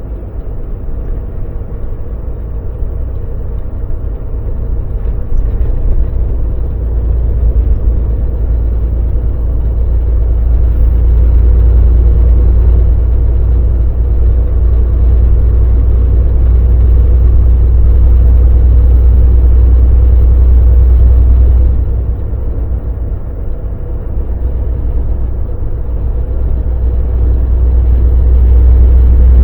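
Volvo VNL semi truck driving: a steady, deep engine and road drone that gets louder about ten seconds in, dips briefly a little past twenty seconds, then builds again near the end.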